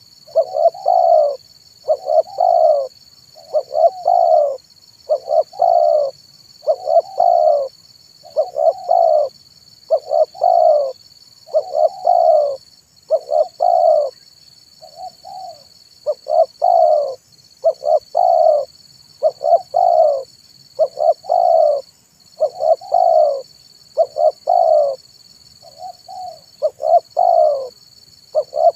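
Spotted dove cooing over and over, short phrases of a few notes repeated about every one and a half seconds with hardly a break: the song of a tekukur kept as a lure bird to call in wild doves.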